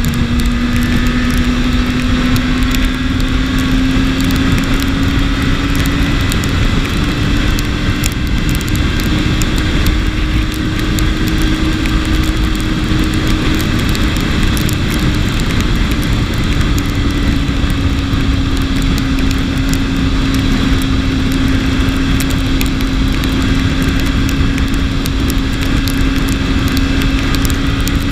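BMW S1000RR inline-four engine running at a steady cruise, its tone rising slightly early on and then holding, under heavy wind and road noise.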